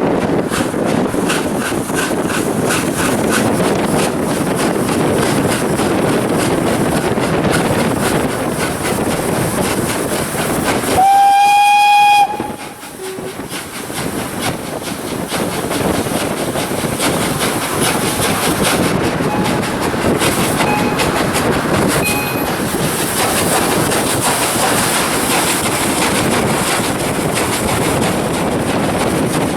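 Train running on the rails, with steady rumble and rhythmic wheel clicks over the rail joints. About eleven seconds in, the Ol49 steam locomotive's whistle sounds once, a loud single tone lasting just over a second.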